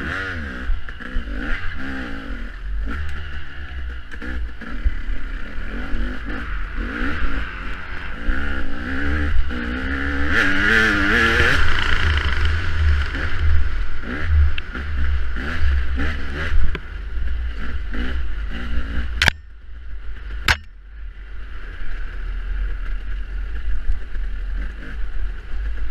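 Off-road motorcycle engine revving up and down as the bike is ridden hard, with heavy wind rumble on the microphone. About three quarters of the way through, the engine briefly drops away and there are two sharp knocks.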